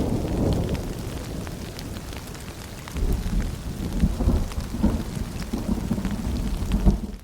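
Rain dripping and pattering with a low rumble of distant thunder that swells about three seconds in; the sound dips away sharply at the very end.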